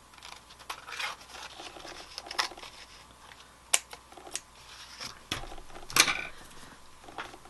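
Scissors snipping through paper in a series of short, irregular cuts, freeing a die-cut piece where the die did not cut all the way through, with the crinkle of card stock being handled.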